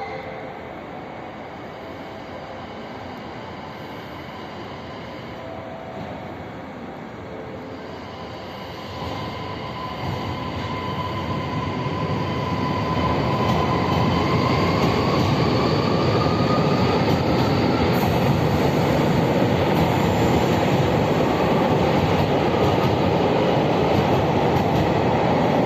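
JR 733 series electric multiple unit pulling away from a standstill. Its traction-motor whine rises slowly in pitch as the train gathers speed, and the rumble of wheels on rail grows steadily louder.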